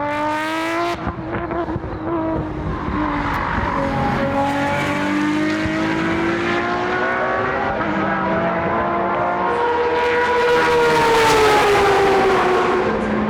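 Modified time attack race car engine under hard acceleration. There is an upshift about a second in, then the pitch climbs steadily through the gear. The car gets louder as it passes near the end, where the pitch falls away.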